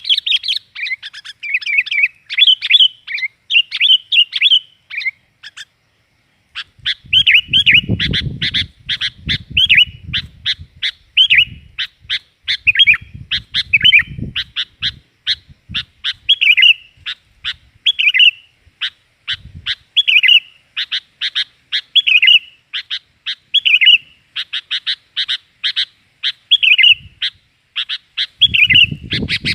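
Sooty-headed bulbul calling in rapid strings of short, loud chirps, with a brief pause about six seconds in.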